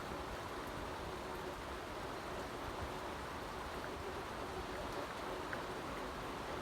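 Steady rain falling, an even hiss of rain with no breaks.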